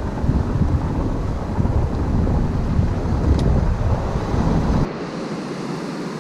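Wind buffeting the microphone, a heavy gusting rumble over a hiss of wind, which cuts off abruptly about five seconds in, leaving a fainter steady hiss.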